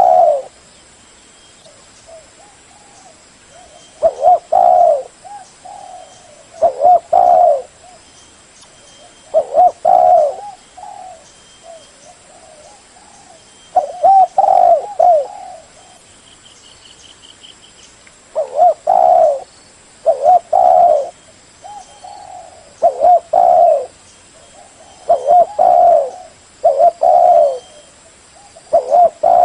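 Spotted dove cooing: a loud phrase of two or three rounded coos, repeated about ten times with gaps of two to four seconds. Faint high chirps from other small birds sound between the phrases.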